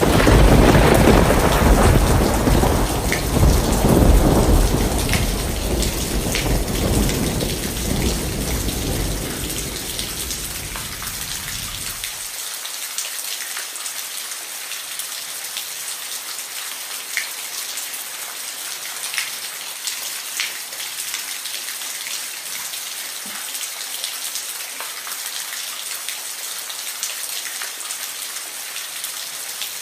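Rain falling steadily, with a thunderclap right at the start whose low rumble rolls on and fades for about twelve seconds, then cuts off suddenly. After that, rain alone with scattered drips.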